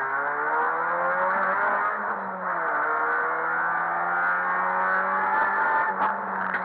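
Opel Astra GSI rally car's engine heard from inside the cabin, accelerating hard. The pitch climbs, drops at a gear change about two and a half seconds in, then climbs again through the next gear, with a short knock near the end.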